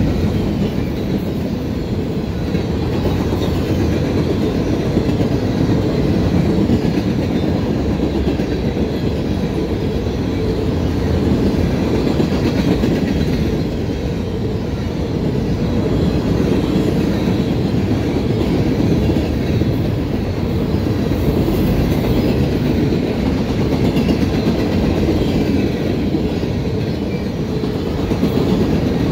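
Norfolk Southern freight gondola cars rolling steadily past at close range: a continuous loud rumble of steel wheels on rail that swells and eases slightly as the cars go by.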